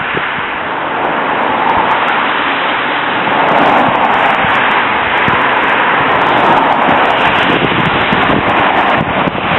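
A car driving past on a wet, slushy street, its tyres hissing on the wet pavement. The hiss swells over the first few seconds and then holds.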